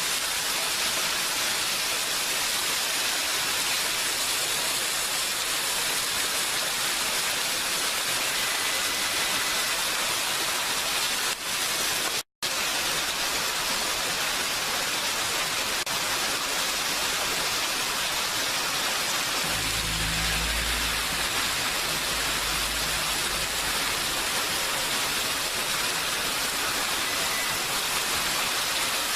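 Steady heavy rain, an even hiss. It cuts out for a split second about twelve seconds in. A low rumble sits under it for a few seconds past the middle.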